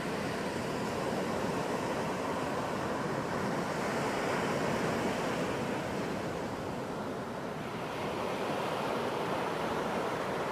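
Ocean surf on a beach: a steady rush of breaking waves that swells about halfway through, eases briefly, then builds again.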